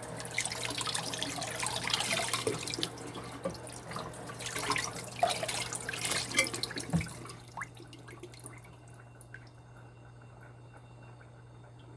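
Kitchen tap running, with water splashing over a glass microwave turntable as it is rinsed in the sink. There is a low knock about seven seconds in, and the water stops shortly after.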